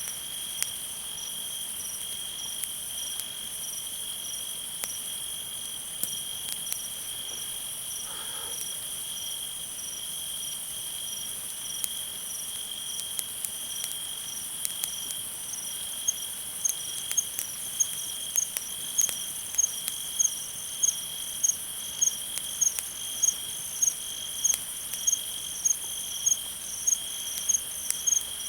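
Chorus of crickets trilling steadily at a high pitch. From about halfway through, one nearer cricket chirps louder in a regular rhythm, about three chirps every two seconds. Faint scattered crackles of a campfire sound over it.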